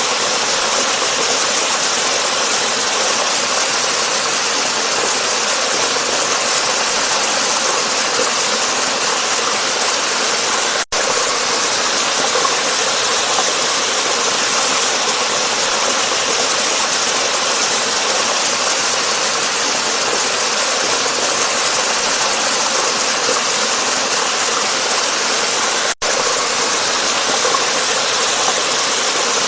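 Waterfall: a steady, loud rush of falling water, hissy and bright in tone, that drops out for an instant twice.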